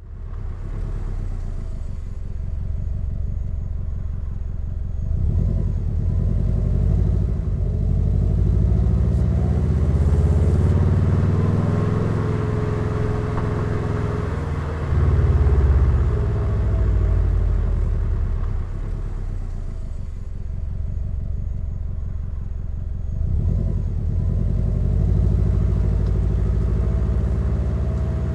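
Turbocharged Subaru engine and exhaust under way. The engine note rises and falls several times as the car accelerates, changes gear and eases off, and is loudest about halfway through.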